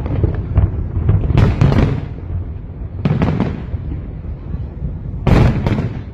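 Aerial fireworks bursting in a display: three clusters of sharp bangs with crackling sprays, about a second, three seconds and five seconds in, over a continuous low rumble of further shells.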